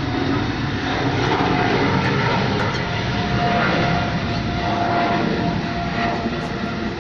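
Boeing 777-200LR airliner running with steady, loud jet engine and airflow noise, with a faint steady whine that comes in about halfway through.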